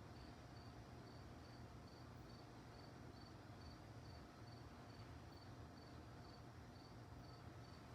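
A cricket chirping faintly and steadily, about two and a half short high chirps a second, over a low steady background rumble.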